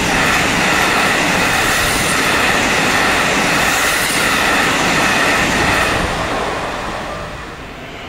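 Keikyu express train passing close by at high speed through a level crossing: a loud rush of wheels on rails with clacking and a high steady tone over it, which starts suddenly and fades away in the last two seconds.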